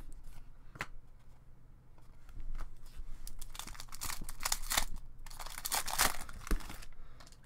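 Crinkling and rustling of trading-card pack wrappers and cards being handled. A few light clicks come first, then two stretches of crinkling, the first starting about two seconds in and the second about five seconds in.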